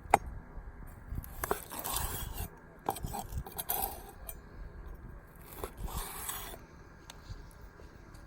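Cutlery scraping and clicking against a plate as the cooked steak is cut and eaten, with bites and chewing in between. The strokes come in short scraping rasps with sharp clicks, the strongest about two, four and six seconds in.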